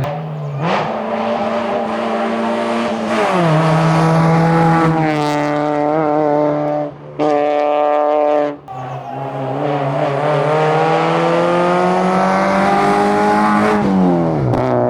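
Honda Civic hillclimb race car engine revving hard up through the gears: the pitch climbs, drops at each shift and climbs again, with a long pull near the end before it falls away. The sound breaks off sharply twice for a moment around the middle.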